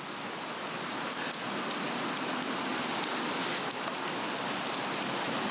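Swedish torch, a cross-cut log burning on a fire stand, with light scattered crackles over a steady hiss.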